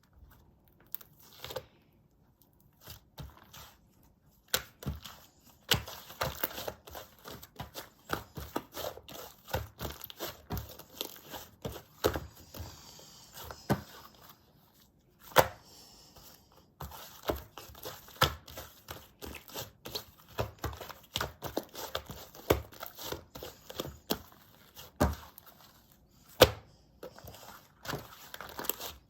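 Slime being stretched, pressed and folded by hand: dense sticky pops, crackles and sharp snaps, sparse at first and thick after a few seconds, with a couple of short pauses.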